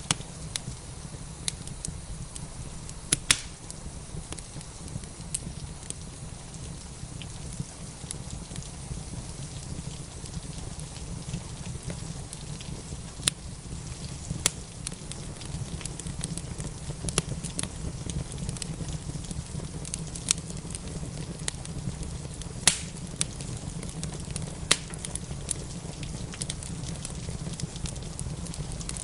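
Wood fire crackling in a fireplace, with irregular sharp pops and snaps over a steady low rumble and the even hiss of rain.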